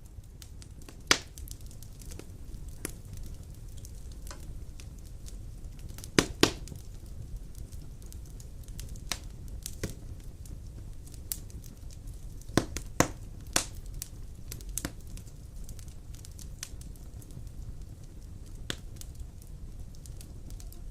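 Large logs burning in a stone fireplace, crackling with irregular sharp pops over a low steady rumble of the fire. The loudest pops come about a second in, twice around six seconds, and three in a row around thirteen seconds.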